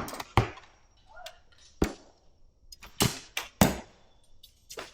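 Archery shots: about six sharp thwacks of bows being loosed and arrows striking targets, spaced irregularly, the loudest two around the middle.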